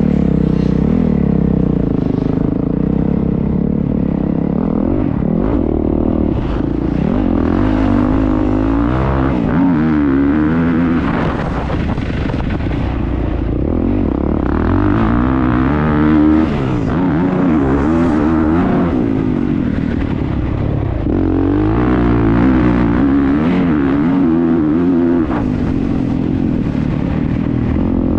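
Motocross bike engine heard from on board, revving up and falling back over and over as the rider accelerates, shifts and rolls off around the track.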